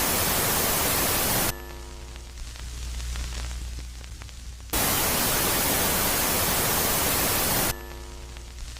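Space-sound audio presented as the sound of Jupiter's moon Megaclite, switching abruptly between a loud phase of hissing static and a quieter phase. The hiss cuts off about a second and a half in, giving way to a low hum, a cluster of steady tones and faint ticks, then starts again near the middle and stops near the end.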